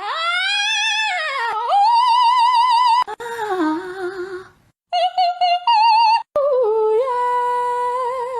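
A high singing voice in several short pieces: a long glide up and back down, then held notes with a wavering vibrato, a few stepped note changes, and a last long steady note.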